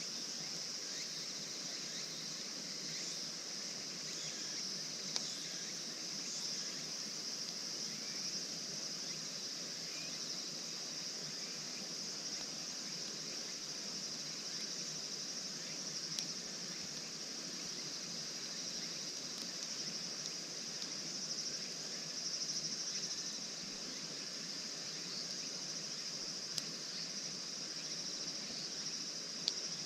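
Steady outdoor chorus of insects, an even high-pitched buzz that holds throughout, with a few sharp isolated clicks.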